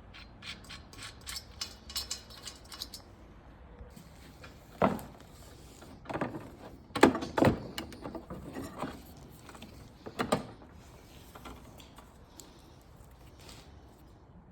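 Small metal parts clinking and jingling for about three seconds, then a few sharp knocks and clanks of metal being handled.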